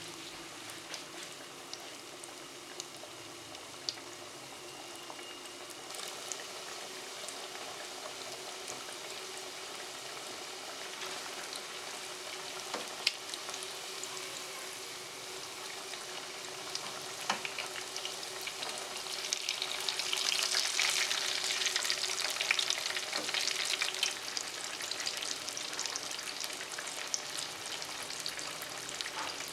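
Battered, cracker-crumb-coated corn dogs on skewers deep-frying in hot oil: a steady sizzle dotted with small crackles. It grows louder about twenty seconds in.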